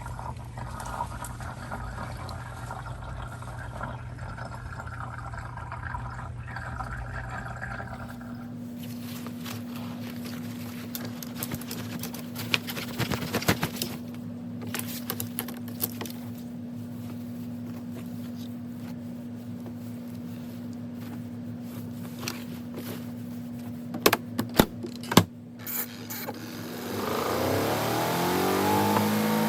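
Portable washer's spin-dryer motor humming steadily, with a few sharp clicks and knocks, then spinning up near the end, its pitch rising into a louder steady whir.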